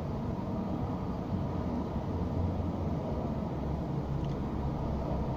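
Steady low rumble of road traffic, swelling slightly about a second in.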